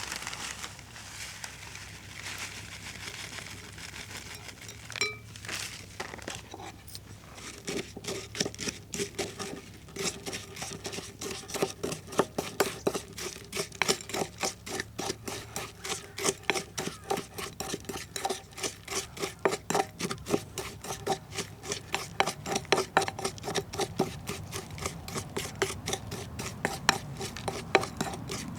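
A utensil beating rapidly and steadily against a metal bowl, about four strokes a second, with the bowl ringing faintly; the strokes begin about eight seconds in.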